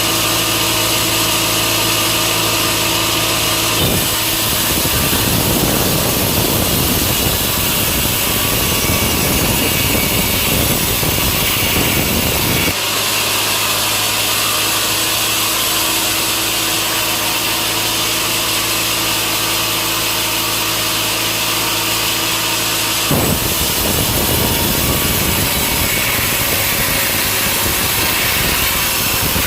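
Engine-driven sawmill saw running steadily, then cutting through a log with a rough, dense rasp about four seconds in; it goes back to the plain engine hum for about ten seconds and cuts into wood again near the end.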